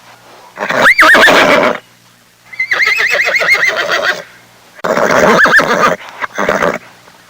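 Horse neighing: a series of whinnies with short gaps between them. The longest, about two and a half seconds in, has a rapid quavering pitch.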